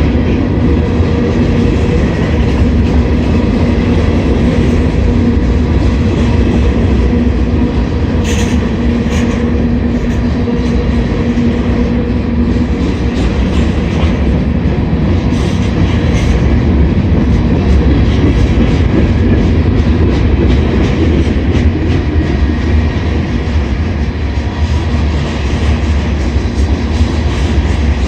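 Slow-moving freight train rolling past, its cars rumbling and clattering steadily on the rails.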